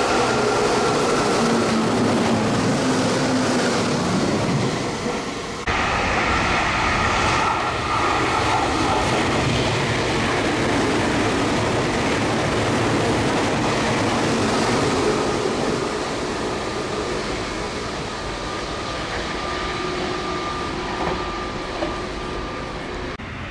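Meitetsu electric trains passing through a station: a train approaches with a steady hum, then after a sudden cut a second train runs close past, its wheel-and-rail noise easing off in the last few seconds as it draws away.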